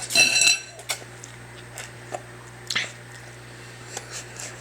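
A child eating noodles noisily from a bowl: wet chewing and slurping sounds, with a short, high-pitched squeak near the start.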